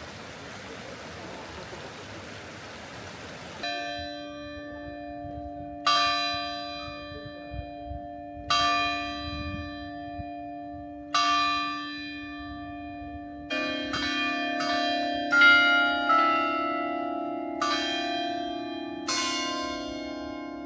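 A faint steady hiss, then bells ringing: a bell struck slowly four times, about every two and a half seconds, then several bells at different pitches struck in quicker succession, each note ringing on and fading.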